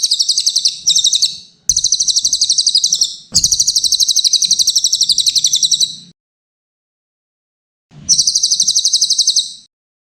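Blue-crowned hanging parrot (cililin/serindit) song: rapid, high-pitched trilled chirping in four phrases. The longest phrase lasts nearly three seconds, and a clean silent gap of about two seconds comes before the last one.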